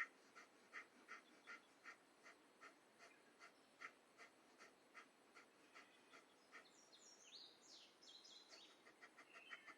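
Faint, rapid, rhythmic forceful breaths through the nose, about two and a half a second, in the manner of kapalabhati or bhastrika pranayama. A few short bird chirps come in over the breathing around the middle.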